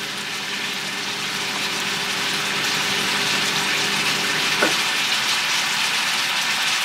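Chicken fajitas sizzling in a hot cast-iron skillet: a steady frying hiss that grows a little louder over the first few seconds.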